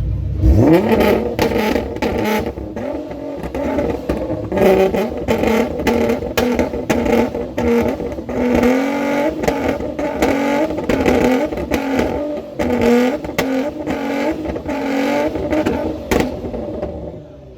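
A car engine being revved over and over, its pitch sweeping up sharply at the start and then rising and falling with each blip of the throttle, with sharp pops and crackles throughout. It drops off just before the end.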